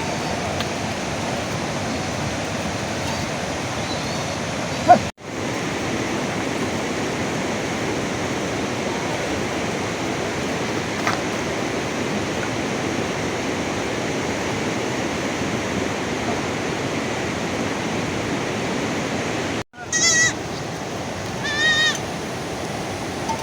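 Heavy rain falling steadily, cut off abruptly twice. Near the end two short, quavering bleats from a sheep or goat.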